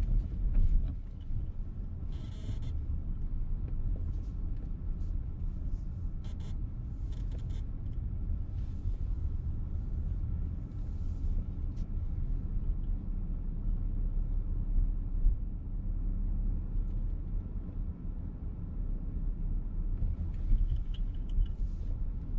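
Low rumble of engine and tyres heard from inside a VW T-Roc petrol car as it drives slowly, with a few brief hissing noises over it.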